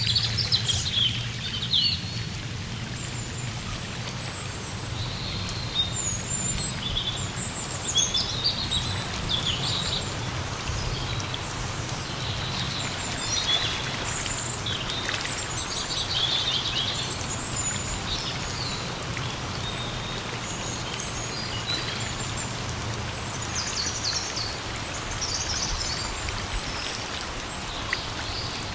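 Steady rain falling in a forest as an even hiss, with birds chirping and calling on and off throughout.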